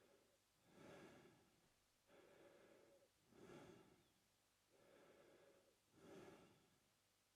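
Faint, slow, even breathing of an adult man through his mouth, in and out in a steady rhythm, about three full breaths.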